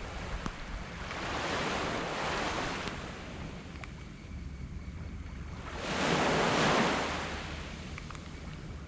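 Small waves breaking and washing up a sand beach, two swells of surf, the second about six seconds in being the louder, over a steady low rumble.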